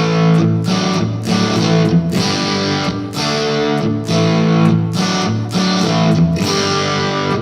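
Electric guitar with single-coil pickups, played on the bridge pickup through a 2-watt amp built around a single 6AF11 Compactron valve with its volume fully up. A run of chords with a gritty, vintage-style overdrive.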